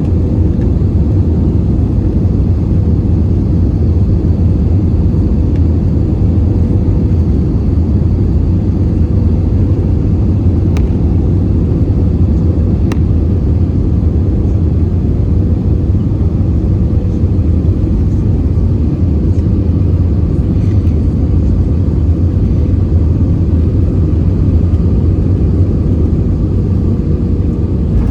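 Airbus A320 cabin noise from a window seat: a steady, loud rumble of its IAE V2500 engines and airflow, with a thin steady hum over it. Two faint clicks sound about two seconds apart near the middle.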